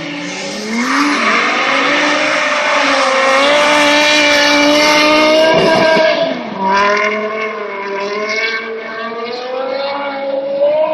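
A car engine running hard at high revs, its pitch climbing early on, holding with slow rises and falls, then dropping sharply about six seconds in and climbing again, as when the driver lifts off or shifts and gets back on the throttle.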